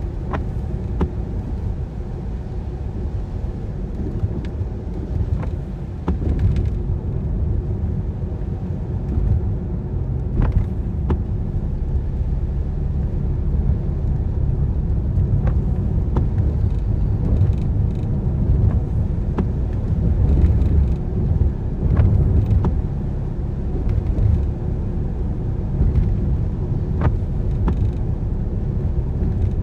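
Car driving on a wet road: a steady low rumble of tyres and engine, with scattered sharp ticks every few seconds.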